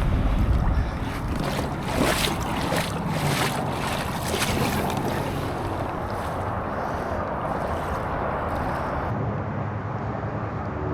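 Water splashing and sloshing around a kayak in shallow creek water, with wind buffeting the microphone. Several sharp splashes come in the first few seconds, then a steadier rushing noise.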